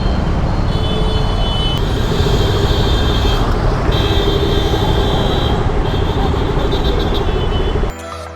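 Wind rumble and road and traffic noise while riding a motorbike through city traffic. Background music cuts in near the end.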